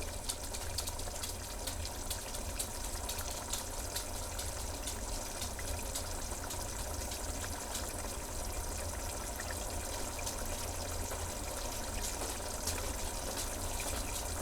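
Pot of curry boiling on the stove: a steady bubbling hiss with many small pops.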